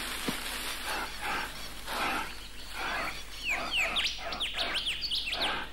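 Birds chirping in many quick, short, falling high notes from about halfway through, over a run of soft breathy bursts about two a second.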